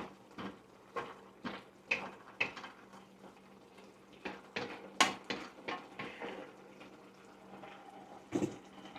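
Kitchen utensils clinking and knocking against cookware while noodle soup is handled: about two sharp knocks a second at first, a cluster of clinks with one loud strike midway, and a last knock near the end.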